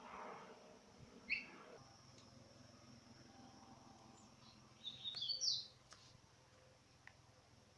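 Bird chirping: a short high call about a second in, then a quick cluster of louder high chirps around the middle.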